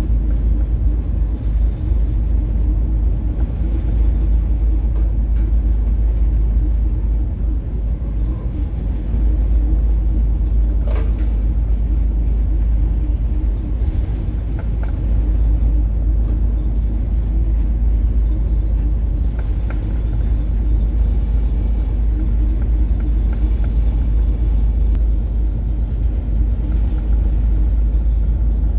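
Steady low rumble aboard a coastal cargo ship under way in rough seas of three to four metre waves, with one short click about eleven seconds in.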